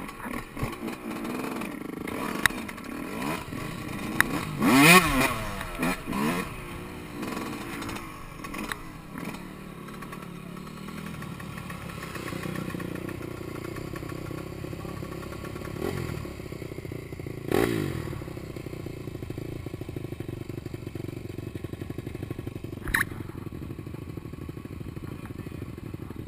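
Yamaha YZ125 two-stroke dirt bike engine running on a trail ride, its pitch rising and falling with the throttle, with a hard rev about five seconds in and another near the middle.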